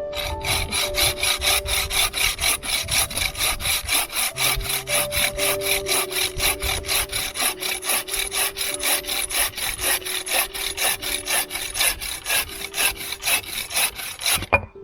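Hand saw cutting through wood in fast, even back-and-forth strokes, about three or four a second, stopping just before the end.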